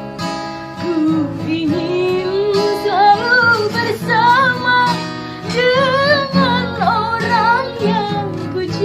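A woman singing long, wavering held notes with vibrato over acoustic guitar accompaniment.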